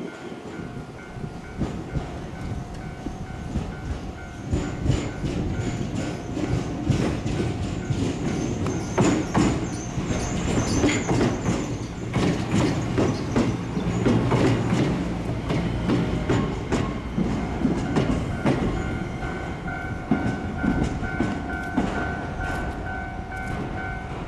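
Shizuoka Railway A3000-series electric train running past at low speed, its wheels clattering over rail joints, with a high wheel squeal for several seconds midway. A level-crossing warning bell dings about twice a second, clear at the start and again over the last six seconds.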